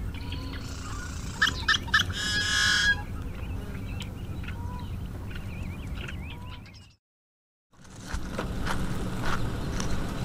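Birds calling over wind noise in a marsh: small chirps now and then, and one loud call about a second and a half in, three short notes followed by a longer buzzy note. The sound cuts out briefly about seven seconds in, then wind noise returns.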